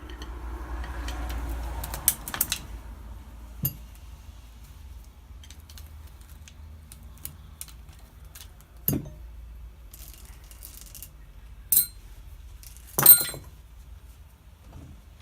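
Metal parts and hand tools being handled on a workbench during differential work: a brief rustle, then a handful of separate sharp clinks and knocks, the loudest near the end.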